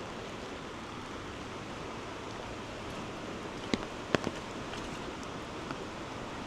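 Steady hiss of rushing water from the flooded river and rain, with three sharp taps about four seconds in.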